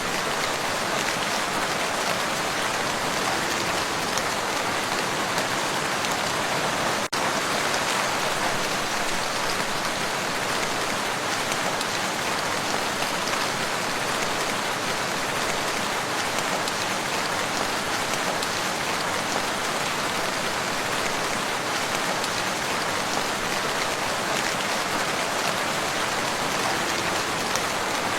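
Steady, even rain falling on a lake's surface, with a momentary dropout about seven seconds in.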